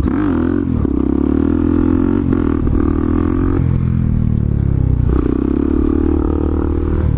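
Motorcycle engine running under throttle while riding, its pitch dropping and climbing again a few times as the rider works the throttle and gears.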